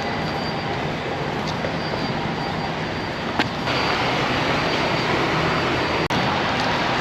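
Steady rumble and hiss of a semi-truck heard inside its cab. A click comes about three and a half seconds in, and the noise gets a little louder after it. There is a brief dropout about six seconds in.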